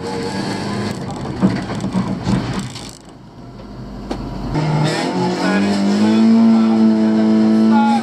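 In-cabin sound of a Honda Civic's carburetted 1.3-litre four-cylinder engine: rough, uneven running for the first few seconds, dropping low about three seconds in, then a steady engine note climbing in pitch and growing loud as the car accelerates through the second half.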